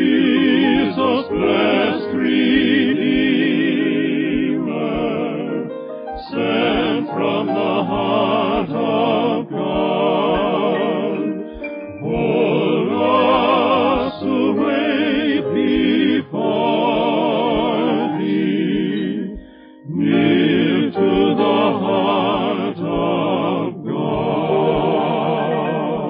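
Slow hymn singing with heavy vibrato, in sustained phrases a few seconds long with short breaks between them.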